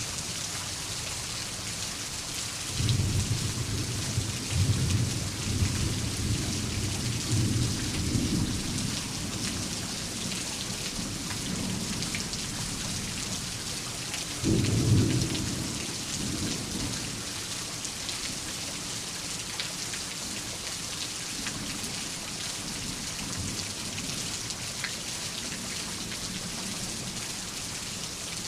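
Steady heavy rain with thunder: a long rolling rumble starting about three seconds in, and a second, sharper rumble about halfway through.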